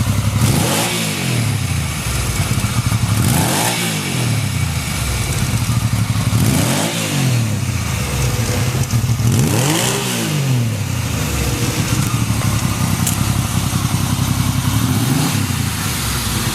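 1980 Yamaha XS750 Special's inline three-cylinder engine idling, its throttle blipped four times about three seconds apart, each time the revs rising and falling straight back to a steady idle, with a smaller blip near the end. It starts easily and idles steadily with no abnormal noises, as the seller describes it.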